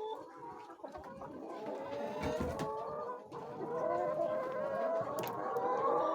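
A flock of chickens clucking and calling, many short overlapping calls at once, with a dull knock about two seconds in.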